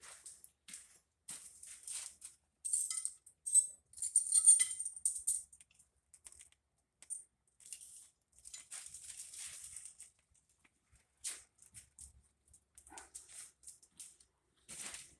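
Intermittent light rattling and scraping of hard objects, in short clusters, loudest about three to five seconds in.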